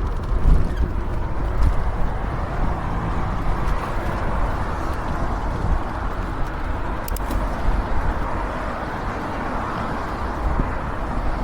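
Steady wind rumble on the microphone of a moving e-bike, mixed with road noise from passing cars.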